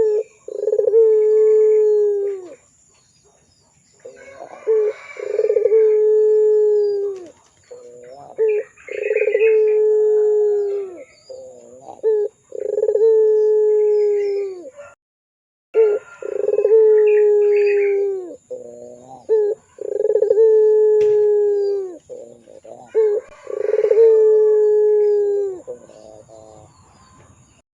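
Puter pelung ringneck dove cooing: about seven long, drawn-out coos every three to four seconds. Each lasts about two seconds and drops in pitch at its end, and most are preceded by a few short notes.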